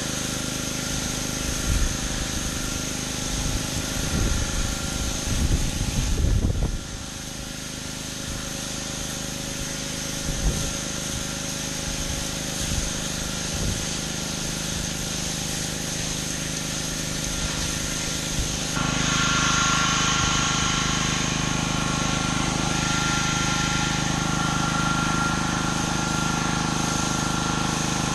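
Gas-engine pressure washer running steadily, with the hiss of its water spray. A few low bumps come in the first several seconds, and about two-thirds of the way through the sound steps up, louder and hissier, and stays there.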